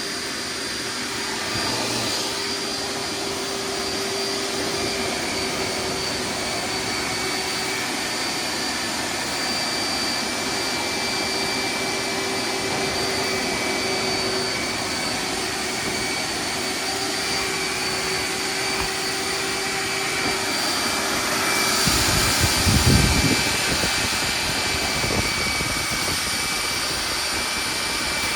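Hoover wet/dry vacuum running steadily with a high whine as it sucks water out of a soaked rug. About 22 seconds in it briefly gets louder and rougher, with a low rumble.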